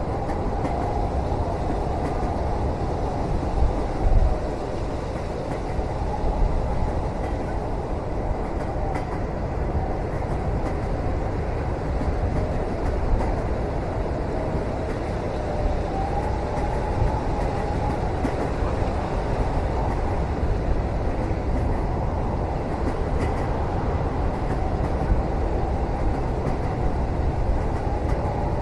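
Moving train heard from inside a cabin: a steady low rumble of the train running on the rails, with a few light knocks and a faint wavering whistle over it.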